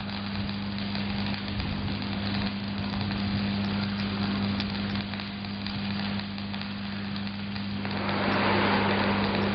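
Stick welding (shielded metal arc) arc burning as an even, steady noise over a steady low hum. The arc noise grows louder about eight seconds in.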